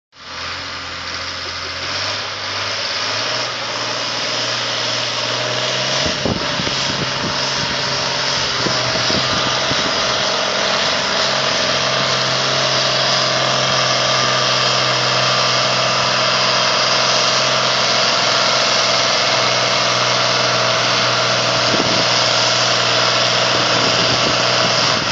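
Ford 9000 tractor's diesel engine running hard at steady speed during a tractor pull, a loud continuous drone that builds over the first few seconds and then holds its pitch, with a few brief knocks along the way.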